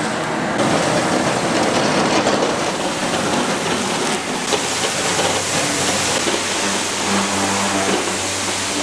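Steady sizzling of food cooking on a hot cooking surface, with a low hum coming in about halfway through.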